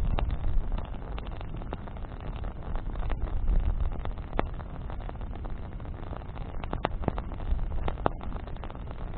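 Campfire of burning branches crackling, with sharp pops scattered irregularly over a steady low rumble.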